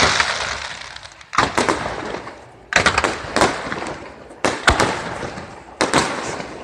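Aerial fireworks bursting: four sharp bangs about a second and a half apart, each followed by a spray of crackles that fades, after a crackling hiss dying away at the start.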